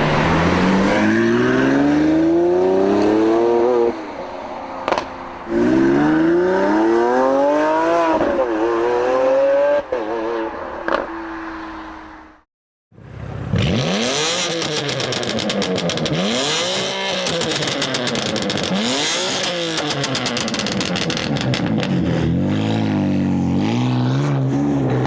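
Car engine accelerating hard, its pitch climbing then dropping at each gear change. After a brief cut about halfway, a second passage of the engine revving up and down several times.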